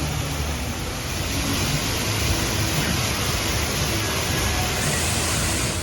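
Fountain water jets spraying and splashing into the pool: a steady rushing hiss over a low rumble, growing stronger about a second and a half in.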